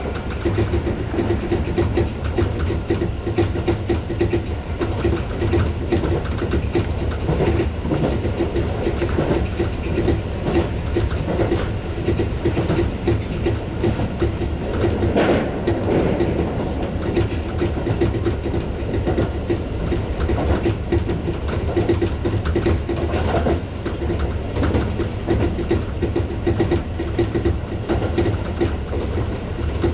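Tobu 6050 series electric train running at speed, heard from inside the train: a steady rumble of wheels on rail with frequent short knocks, one louder about halfway through.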